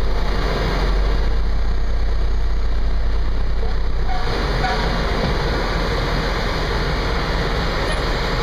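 Fire engine running, a steady loud rumble with road or engine noise over it that brightens about four seconds in.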